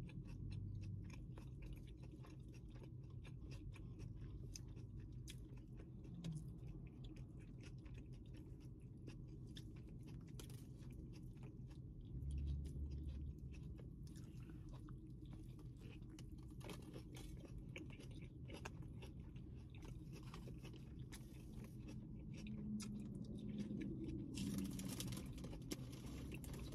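Close-miked chewing of a turkey provolone sub with shredded lettuce: faint, frequent wet mouth clicks and soft crunching, over a low steady hum. A brief low thump about halfway through and a short rush of noise near the end.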